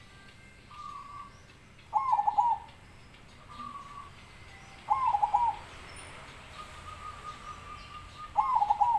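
Perkutut (zebra dove) cooing: three loud stuttering song phrases, each of a few quick notes, coming about every three seconds, with fainter short notes in between.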